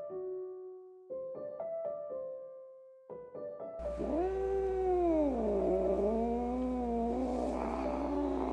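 Piano music for the first few seconds, then a kitten's long, drawn-out meow that drops in pitch and wavers, over a steady low hum.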